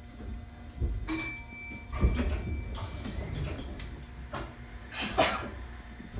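Cabin sound of a train standing at a platform: a steady low hum with scattered knocks and rustles. About a second in there is a short ringing metallic clink, and a louder knock follows a second later.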